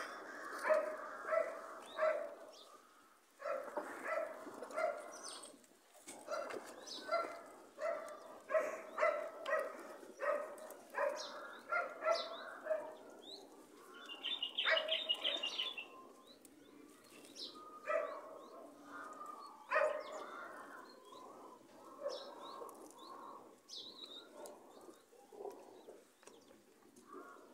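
Birds calling: runs of short, repeated pitched notes, two or three a second, with a quick high chirping trill about halfway through.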